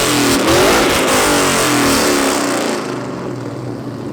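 Engine revved hard through a loud modified exhaust, its pitch climbing and falling with each blip of the throttle, then dying down about three seconds in.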